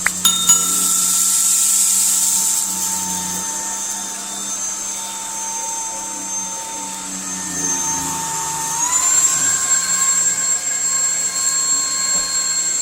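ORFELD B08 cordless stick vacuum running, its motor giving a steady high whine over a rushing of air, with a few clicks right at the start. About nine seconds in, the whine rises a little in pitch as the motor speeds up and holds there.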